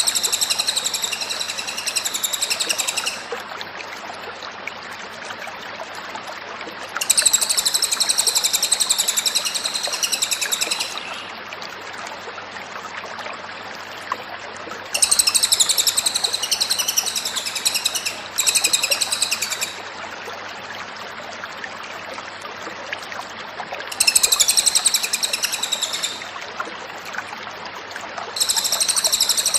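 Cililin songbird singing in repeated bouts of rapid, very high-pitched chattering trills, each bout lasting a few seconds with short pauses between, over a faint steady hum and hiss.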